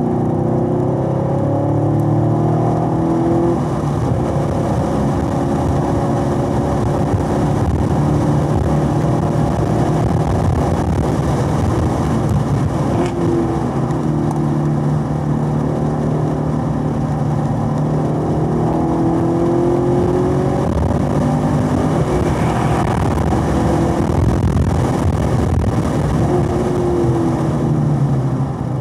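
Chevrolet Corvette C7's 6.2-litre V8 at full speed on a race track, pulling hard with its pitch rising several times as it climbs the revs and falling away as the driver lifts and brakes for corners.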